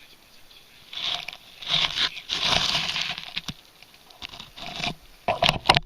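Wet leaves, twigs and soil scraping and crunching as they are disturbed, in several irregular bursts, with a few sharp clicks near the end.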